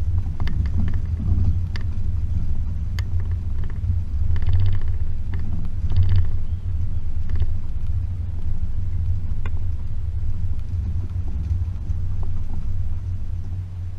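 Range Rover P38's 4.0-litre V8 running steadily at low speed along a rough unsurfaced track, a constant low rumble with scattered short knocks and rattles.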